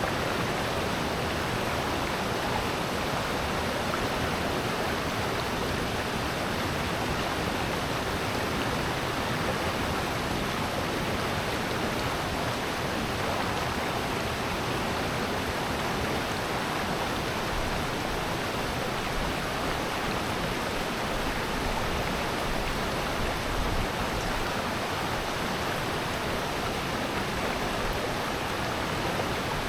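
Rushing water in a valley stream, a steady, even rush that does not change.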